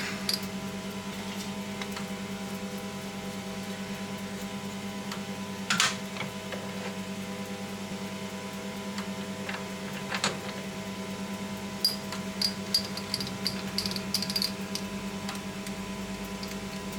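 A machine tool's motor running with a steady hum while metal is cut. Short sharp clicks come twice, and a run of brief high squeaks and clicks follows from the tool working the metal.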